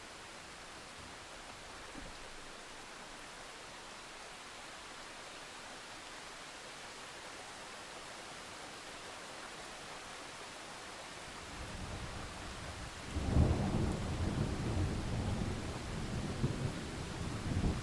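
Steady rain falling, then thunder rolls in near the end: a low rumble builds and breaks into a loud, sudden peal that keeps rumbling.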